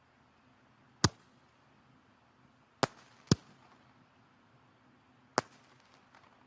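Firewood burning in a fireplace, the logs giving four sharp crackling pops spaced irregularly, over a faint steady background.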